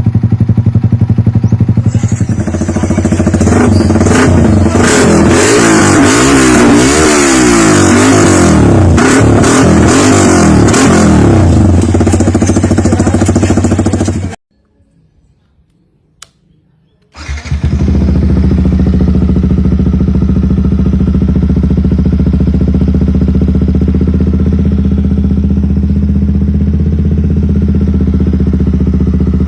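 Yamaha XSR 155's single-cylinder engine running through an aftermarket exhaust: idling, then revved up and down repeatedly for about twelve seconds before cutting off abruptly. After about three seconds of near silence, the engine idles steadily again.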